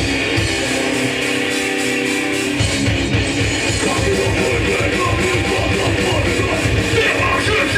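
Hardcore punk band playing live: distorted electric guitar over drums and bass. About a second in, the drums and bass drop out, leaving a held guitar chord ringing, and the full band comes back in after a second or so.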